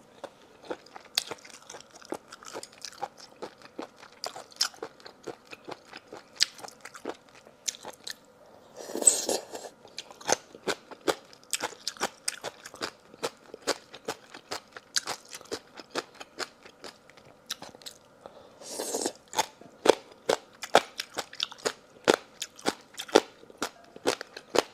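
Close-up chewing of marinated gongcai (crisp celtuce stem) and sea intestine: a steady run of sharp, wet crunching clicks. Twice, about a third and three quarters of the way through, there is a louder rush of noise.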